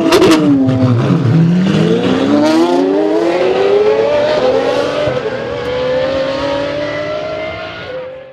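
Supercar engine accelerating hard. Its pitch dips briefly with a few sharp pops at the start, then climbs steadily in one long pull before cutting off abruptly at the end.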